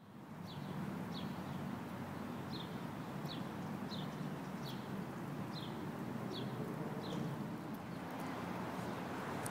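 A songbird repeating a short downward chirp over and over, roughly every two-thirds of a second, stopping after about seven seconds, over a steady low outdoor rumble.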